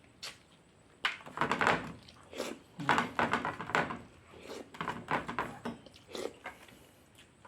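Close-up mukbang eating sounds: a person chewing and smacking on boiled beef soup, eaten by hand, in irregular bursts.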